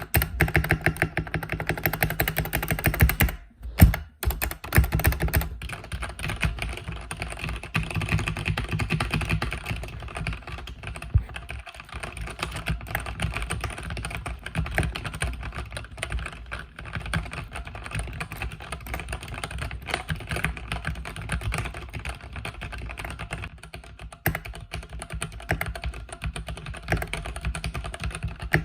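Fast continuous typing on a mechanical keyboard with red linear switches: a dense run of keystroke clacks, pausing briefly about three seconds in.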